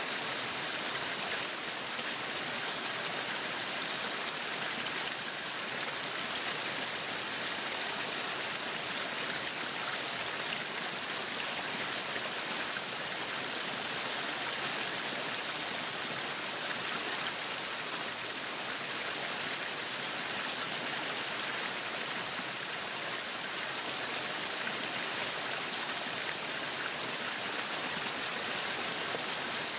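Meat sizzling on a yakiniku grill: a steady, even hiss with no breaks.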